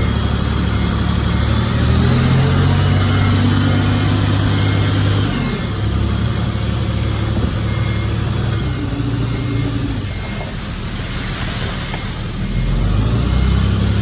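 Diesel engines of heavy earthmoving machinery (bulldozer and dump trucks) running steadily, easing off about halfway through and rising again near the end. A faint reversing beeper sounds repeatedly throughout.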